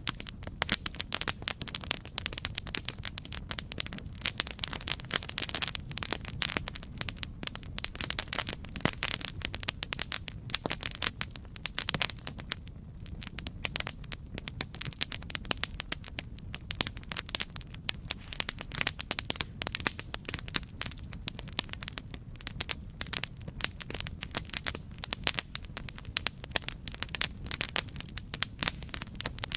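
Campfire crackling: dense, irregular pops and snaps of burning wood over a low steady rumble of the flames.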